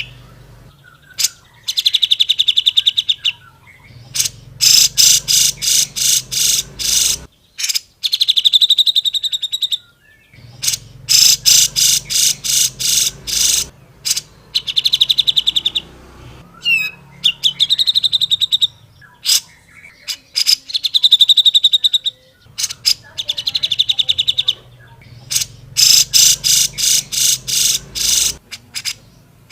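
Cucak jenggot (grey-cheeked bulbul) singing loudly in repeated phrases of rapid, buzzy trills, each lasting one to two seconds, with short pauses between them.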